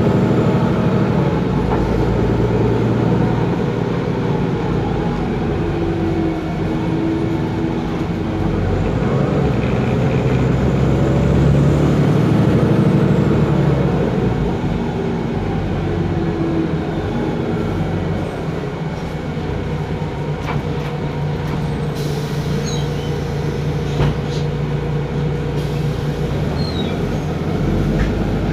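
Otokar Kent LF city bus driving, its Ford Ecotorq diesel engine and Voith DIWA automatic gearbox running under way, the engine note rising and falling as it speeds up and eases off, with a few short clicks in the second half.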